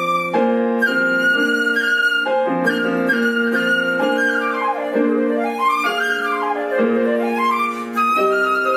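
Flute and piano playing classical music. The flute plays held high notes and quick runs that sweep down and back up over sustained piano chords.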